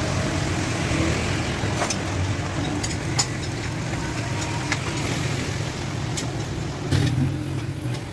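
A steady, low engine rumble runs throughout, with a few sharp metallic clicks, like tools, about two, three, four and a half, and seven seconds in.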